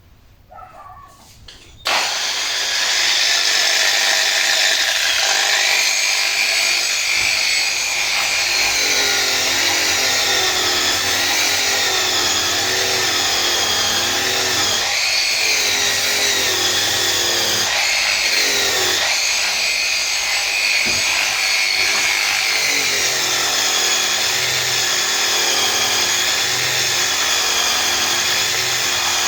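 Variable-speed grinder with a brushing wheel, switched on about two seconds in and then running steadily on stainless steel, its high whine wavering in pitch.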